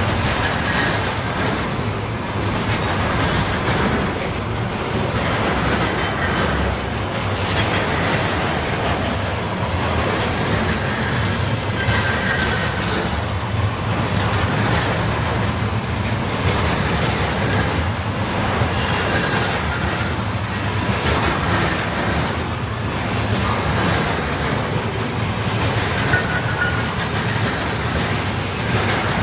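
Freight train wagons rolling past at speed, wheels clattering steadily on the rails. Short wheel squeals break through a few times.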